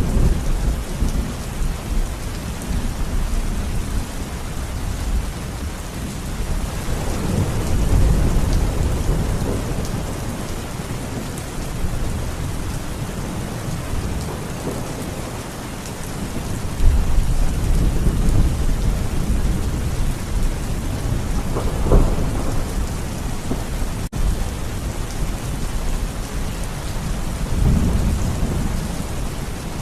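Steady rain falling, with deep rumbles of thunder swelling up several times.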